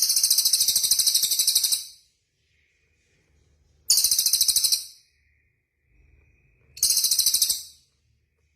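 A small songbird sings a rapid, very high-pitched trill three times. The first trill is the longest, at about two seconds; the other two last about a second each.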